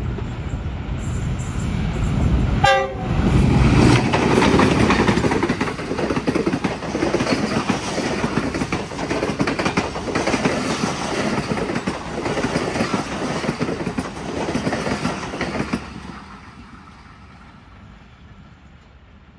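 Express passenger train behind a GE U20C diesel-electric locomotive passing through at speed. A short horn blast sounds about three seconds in, then the locomotive and coaches rush past with wheels clattering over the rail joints, fading away after about sixteen seconds.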